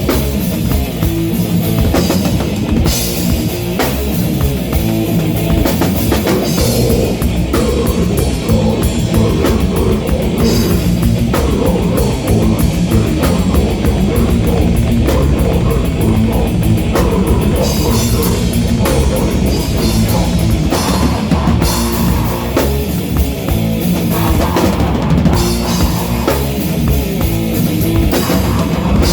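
Live rock band playing loud, heavy music: electric guitar and bass over driving drums, with rapid cymbal and drum strikes.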